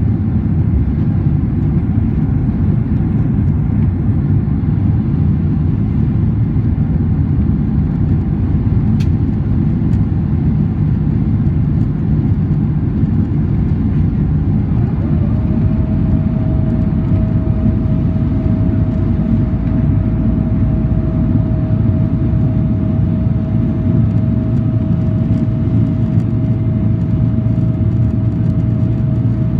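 Steady engine and airflow rumble inside the cabin of a Boeing 767-400ER airliner. About halfway through, a steady hum comes in on top.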